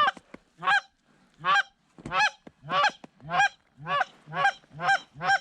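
Canada goose call blown by a hunter to pull in an approaching flock: a steady run of about ten loud, single honks, each rising in pitch, speeding up to about two a second toward the end.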